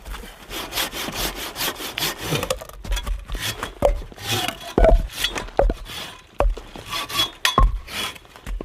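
Hand saw cutting through wood with repeated back-and-forth strokes.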